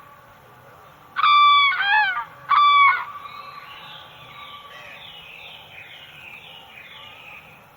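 A crane calling three times in quick succession, loud and pitched, about a second in, over a background chorus of other birds' smaller, higher calls.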